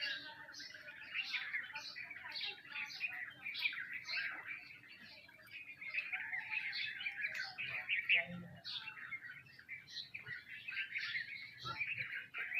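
A flock of sparrows chirping all at once, a dense, unbroken run of short overlapping chirps.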